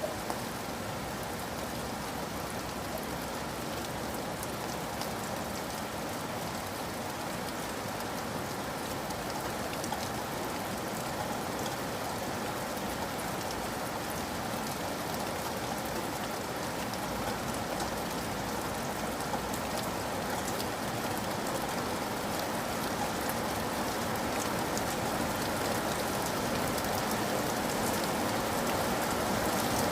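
Steady rain falling, a dense even hiss with many small drop ticks, growing slightly heavier toward the end.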